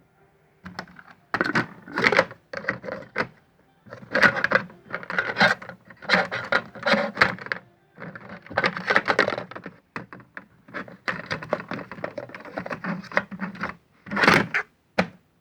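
Hotpoint toy washing machine with a plastic flower-pot plate fitted for its spin, clattering and knocking in uneven bursts of rattling, each lasting about a second with short breaks between.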